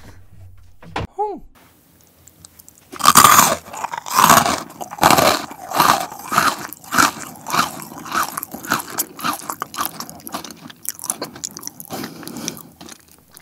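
Close-miked chewing of white chocolate with crunchy dried strawberry. A loud first crunch comes about three seconds in, then a steady run of crisp chewing crunches, a couple a second, that quicken and grow fainter toward the end.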